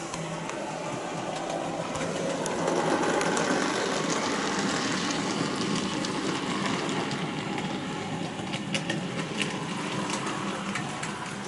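OO gauge model locomotive running along the track, its small electric motor whirring and its wheels rattling on the rails. It grows louder about three seconds in, then eases off, with a few light clicks near the end.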